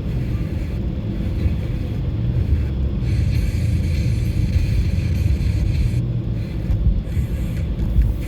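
Steady low rumble of a car's road and engine noise heard from inside the cabin while driving at highway speed.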